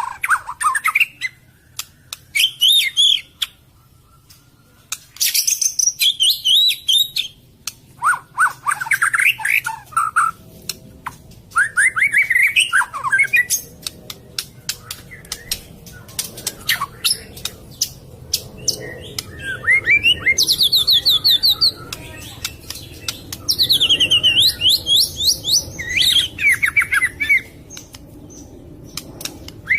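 White-rumped shama (murai batu) singing: loud, varied phrases of whistles, fast rising and falling trills and sharp clicks, separated by short pauses.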